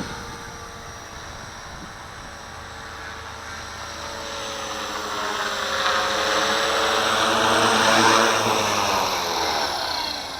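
Walkera V450D01 collective-pitch RC helicopter flying, its rotor and motor whine steady at first, growing louder past the middle as it comes close, then dropping in pitch and easing off as it moves away.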